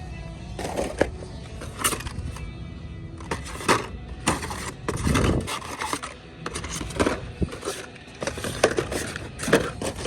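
Hot Wheels toy cars clacking and scraping against each other in quick, irregular knocks as they are sorted through by hand.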